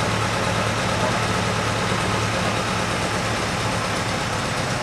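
Alfa Romeo Duetto Spider's twin-cam four-cylinder engine on twin Weber carburettors idling steadily while it is being tuned.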